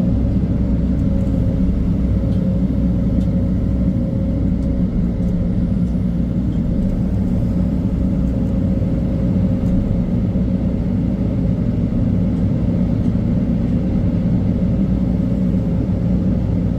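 Heavy diesel engine of earth-moving machinery running steadily, a deep continuous hum with a held higher tone above it.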